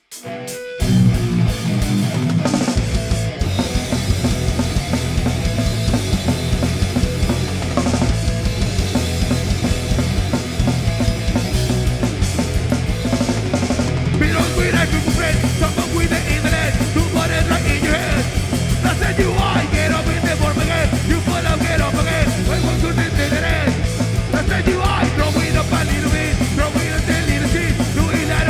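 A punk rock band playing live: a full, loud band with drum kit, kicking in about a second in and driving on steadily.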